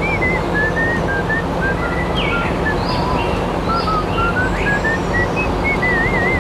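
A high, thin tune of short notes stepping up and down in pitch, with a wavering trill near the end, over a steady noisy hum.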